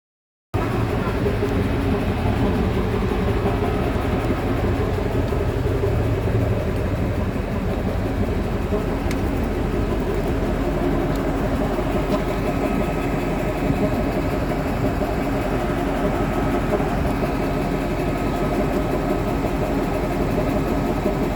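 Train running on its rails, a steady engine drone with rolling rumble throughout.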